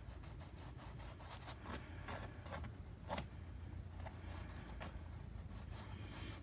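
Paintbrush strokes scratching and dabbing on canvas: a string of short, irregular rasps, the sharpest a little after three seconds in, over a steady low hum.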